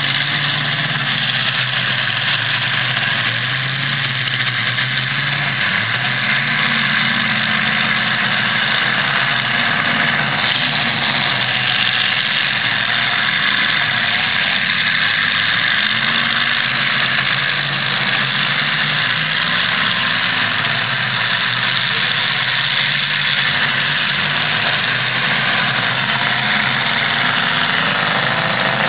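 Demolition derby car engines running together, their pitch wavering up and down as they rev, under a dense steady noise. No single crash stands out.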